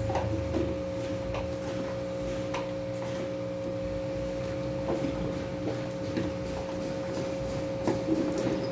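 Scattered light clicks and knocks of rocks being set down and shifted on aquarium soil, over a steady low hum.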